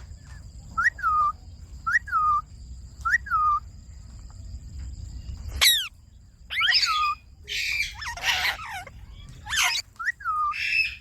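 Ringneck parrot calling: a short whistled note that rises then falls, given three times about a second apart, then a steep downward swoop and a run of harsh, raspy screeches, with one more whistled note near the end.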